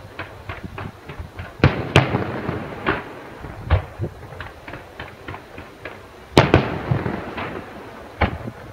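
Fireworks display shells bursting: a string of sharp bangs and crackles, each trailing off in an echo, with the loudest reports about two seconds in and again about six and a half seconds in.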